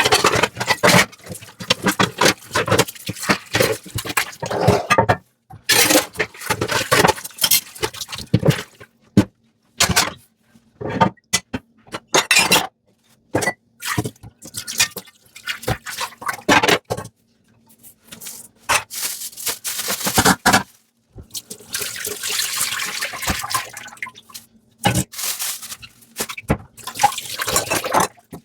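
Hand dishwashing: a sponge scrubbing in short irregular strokes, with water splashing and dripping and brief knocks of dishware. About three-quarters through comes a longer, steadier stretch of scrubbing or running water.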